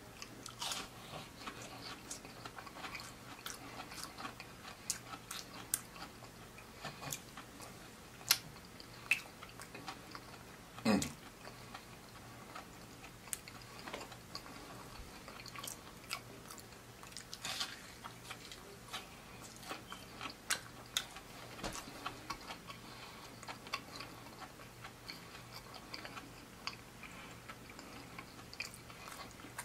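A person chewing and biting fried seafood: irregular wet mouth clicks and smacks with some crunching, and a few louder bites about a third of the way in and again a little past halfway.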